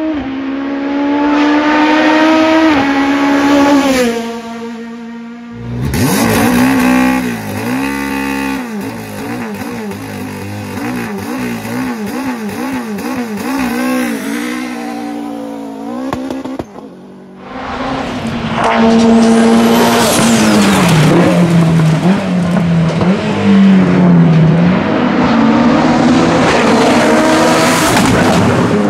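Hillclimb race cars at high revs, one after another: the first engine note climbs through gear changes and then drops away. The second runs at a pitch that swings up and down quickly and evenly for about ten seconds. From a little past halfway a third car accelerates hard, its note rising and stepping down at each upshift.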